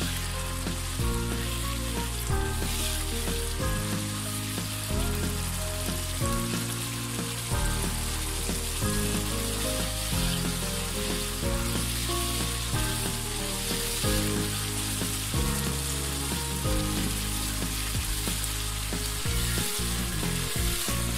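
Spice paste (masala) sizzling in a nonstick wok as it is stirred and turned with a spatula, being cooked down with a little water. A steady hiss runs throughout, over a background music track whose low notes change about every second.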